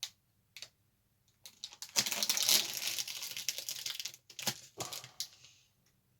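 Plastic bag holding a model-kit sprue crinkling as it is handled: a few light clicks, then a dense rustle from about two seconds in until shortly before the end.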